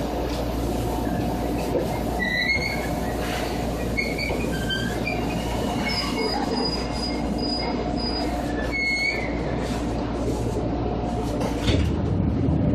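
Electric train set 2453F, a Seibu 2000-series unit, running with a steady motor and rail hum. Short high-pitched wheel squeals come several times from about two seconds in, one of them held for about two seconds. A louder low rumble sets in near the end.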